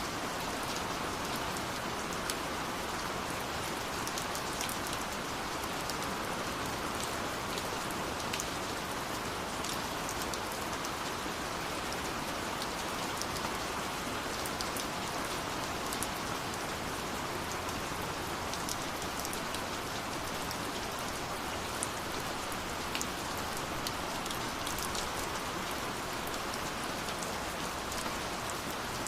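Steady rush of falling water from a waterfall, with scattered small crackles and pops of a wood fire.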